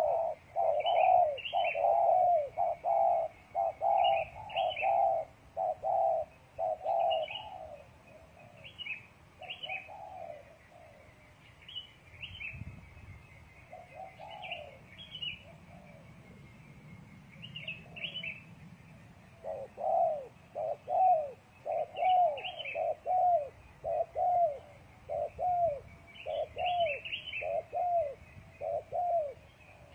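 Spotted dove (tekukur) cooing in runs of short repeated coos, about two a second, sparser in the middle and strong again for the last ten seconds. Small birds chirp higher above.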